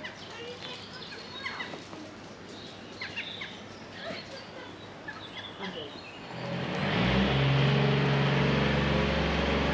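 Small birds chirping with short, quick calls for about the first six seconds. Then a steady, louder low hum takes over, typical of a car engine running.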